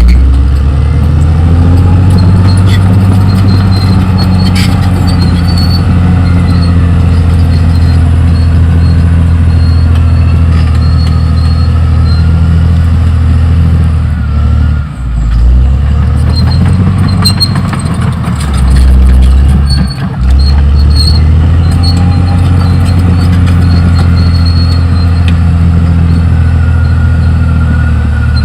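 Caterpillar D6R XL bulldozer's diesel engine running steadily, with the revs dipping briefly twice, about halfway and about two-thirds of the way through, over a faint wavering squeal.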